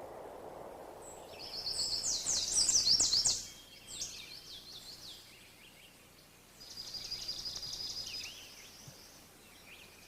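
A songbird singing twice. The first is a loud, rapid run of high notes about a second in, and the second is a quieter, even, high trill about halfway through.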